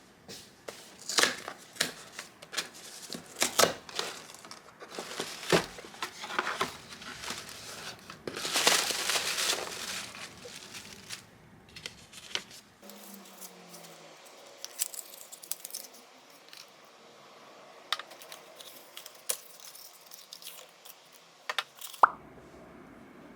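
Close-up handling sounds: a run of sharp clicks and taps, a crinkling, tearing rustle of paper or wrapping about eight seconds in, then scattered light taps.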